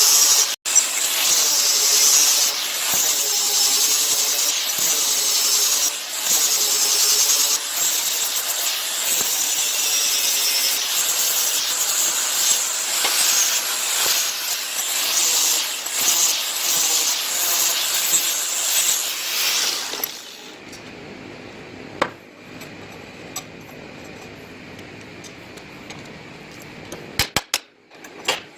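A power tool grinding or cutting metal, a loud rough hiss whose pitch wavers as the load changes, running for about twenty seconds and then shutting off. After it stops there is a low steady hum with a few sharp clicks near the end.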